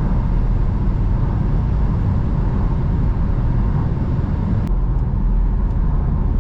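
Steady road and engine noise of a BMW cruising at highway speed, heard from inside the cabin: an even low rumble, with a faint click about three-quarters of the way through.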